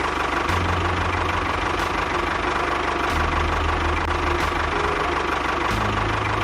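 A small engine running steadily, its low hum shifting slightly in pitch a few times, with faint regular ticks.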